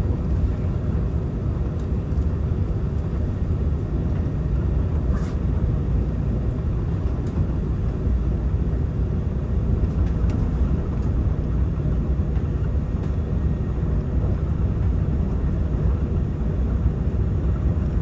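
Steady low rumble of a Taiwan Railway EMU900 electric multiple unit running along the line, heard from inside the passenger car.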